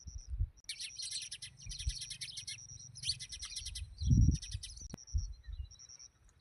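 Sparrows chirping in rapid chattering runs, three or four bursts close together, with low thumps and knocks underneath, the loudest about four seconds in.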